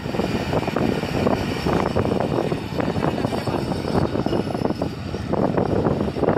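Passenger train running through the station with a steady rush and clatter, mixed with strong wind buffeting the microphone in a dust storm.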